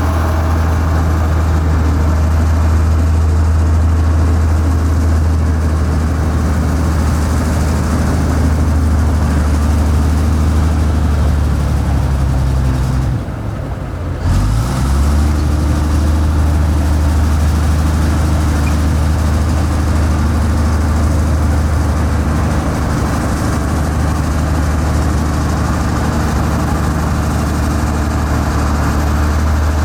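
Heavy diesel engine of construction machinery running steadily with a deep, low hum. It breaks off briefly about halfway through and then carries on.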